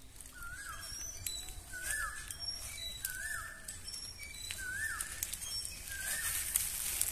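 A bird calling repeatedly outdoors: five alike short notes, each rising then dipping, about one every second and a half, with fainter high chirps from other birds around them.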